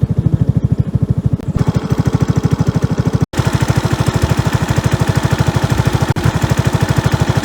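Small single-cylinder four-stroke motorcycle engine idling, a steady fast putter of about a dozen beats a second, with one brief dropout about a third of the way through.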